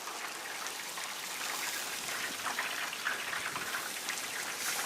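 Hot sausage-grease roux sizzling and crackling steadily in a cast iron skillet as milk goes in for country gravy.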